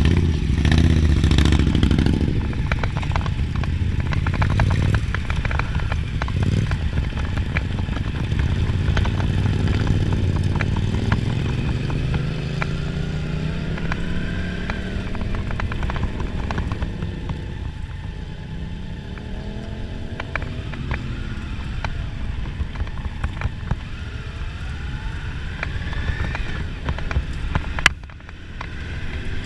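Indian V-twin motorcycles riding on the road, the engine note rising and falling in pitch as the bikes speed up and slow down.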